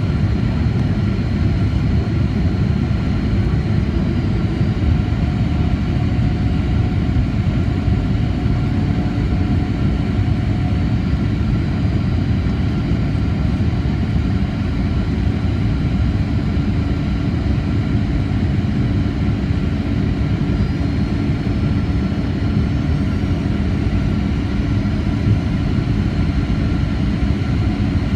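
Steady cabin noise inside a Boeing 737-800 in flight: its CFM56-7B jet engines and the airflow make an even, loud noise that is heaviest in the bass, with a few faint, steady whining tones above it.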